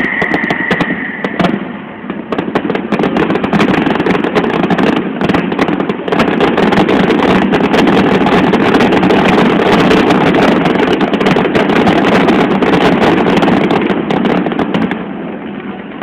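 Fireworks display: a loud, dense barrage of rapid bangs and crackles, with a high whistle fading out about a second in, tapering off near the end.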